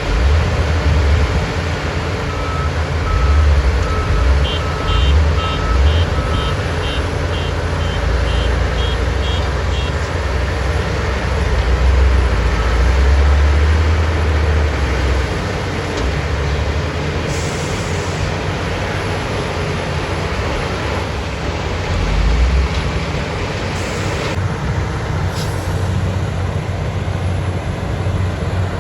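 Heavy construction vehicles running with a deep, steady engine drone, while reversing alarms beep: a lower, evenly spaced beep for a few seconds near the start, overlapped by a higher, faster beeper that stops about a third of the way in.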